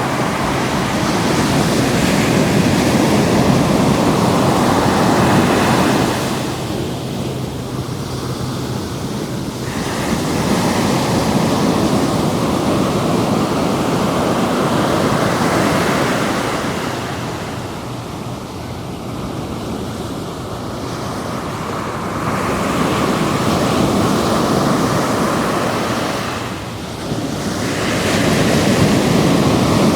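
Ocean surf breaking and washing up the beach, swelling and easing in slow surges every several seconds, with some wind on the microphone.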